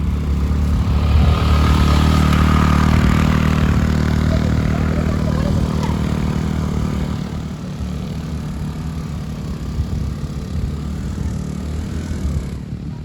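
Motorcycle engine running under way, with a steady low drone. It is louder for the first few seconds and eases off a little about seven seconds in.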